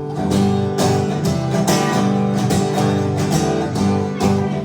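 Acoustic guitar strummed in a steady rhythm, playing the instrumental bars between the chorus and the next verse of a song.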